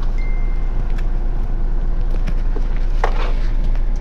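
Motorhome engine and road rumble heard from inside the cab as it drives slowly. There is a brief thin high tone near the start and a few light clicks about three seconds in.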